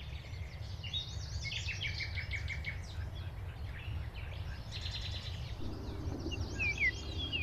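Small birds chirping and singing in quick, overlapping phrases, with a few clear downward-slurred whistles near the end. A steady low rumble runs underneath.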